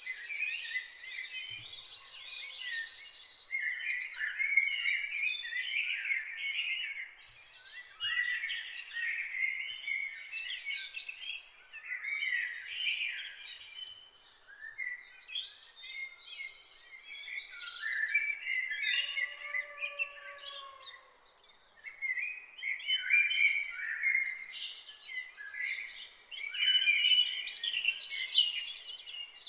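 Dense chorus of many songbirds singing at once, with overlapping chirps, trills and warbles that keep going without a break. About two-thirds of the way through, one lower, drawn-out call rises and falls.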